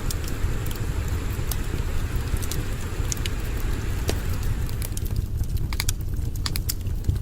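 Wood campfire crackling, with scattered sharp pops that come thicker in the second half, over a steady low rumble.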